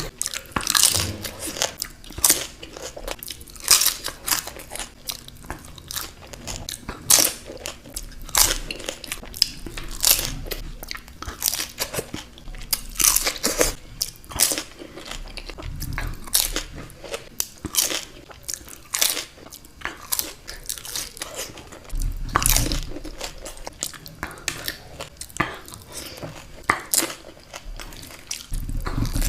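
Close-miked crunching and chewing as crisp puri shells filled with yogurt are bitten and eaten, with irregular sharp crunches several times a second.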